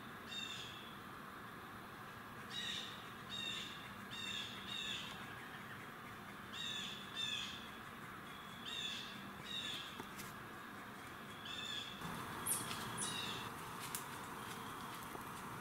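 A bird calling in the woods, about a dozen short calls that come singly and in pairs.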